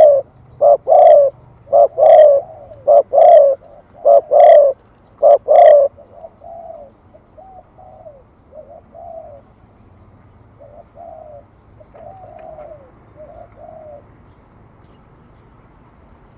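Spotted dove cooing in the 'thổ thúc gù' style. Loud paired coos, a short note then a longer one, repeat about every second and a quarter. After about six seconds the coos turn fainter and softer and stop near the end.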